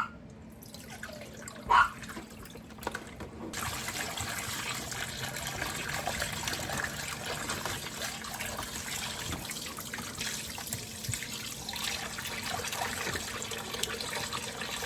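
Kitchen tap running steadily into a sink, starting about three and a half seconds in, as raw chicken is rinsed until the water runs clear. Two short sharp sounds come just before it.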